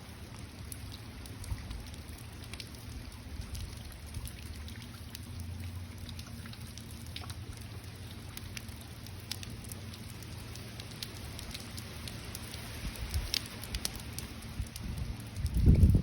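Steady rain, with single drops ticking on a surface over an even hiss and a steady low hum. About a second before the end a loud low rumble breaks in.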